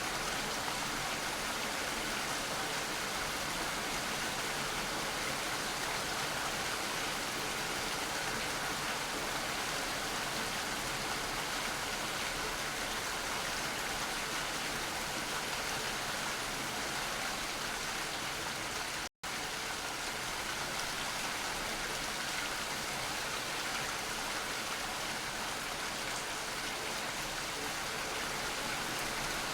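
Steady rain falling, an even hiss of drops. It is broken only by a split-second drop to complete silence about two-thirds of the way through.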